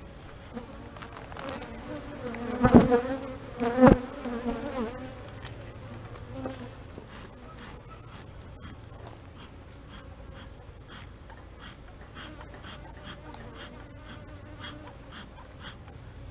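Honey bees buzzing around an open hive, a steady hum that swells for a moment. Two sharp knocks stand out about three and four seconds in.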